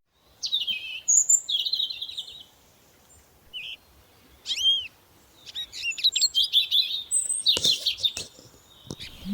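Several small songbirds chirping and trilling in short, quick high phrases, with brief pauses between them. A couple of sharp clicks come near the end.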